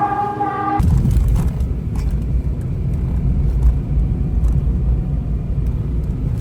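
Steady low rumble of a moving road vehicle, engine and road noise. It follows a brief pitched tone that cuts off under a second in.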